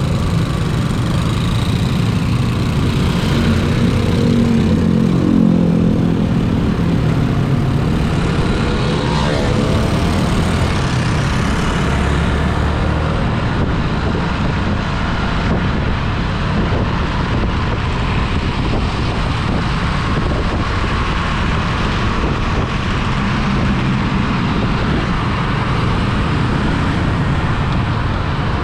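Steady road and traffic noise heard from a moving vehicle, with a constant rush and low rumble. Engine notes rise and fall briefly around five seconds in and again around nine seconds in.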